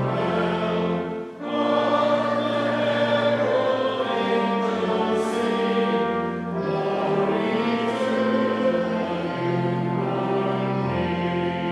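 A choir singing a hymn with accompaniment, in long held chords over a sustained bass, with a short break between phrases about a second in.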